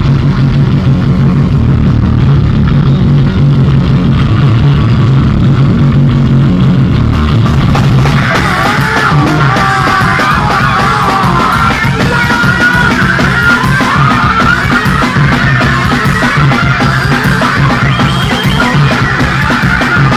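Loud live rock music: a band playing with a heavy, distorted low end, with a wavering high-pitched squealing line coming in about eight seconds in.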